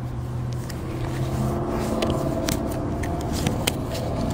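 A vehicle engine idling with a steady low hum, with scattered sharp clicks and rustling from handling close to the microphone.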